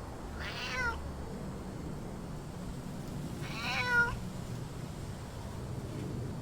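A kitten meowing twice, about three seconds apart: two short, high-pitched meows, each falling in pitch at the end, the second louder.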